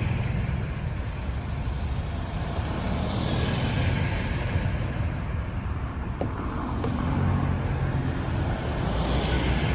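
Road traffic: motor vehicles passing one after another, engine rumble and tyre noise swelling and fading every few seconds.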